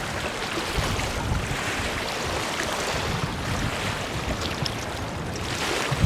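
Strong wind rushing steadily over open ground and buffeting the microphone with an uneven low rumble.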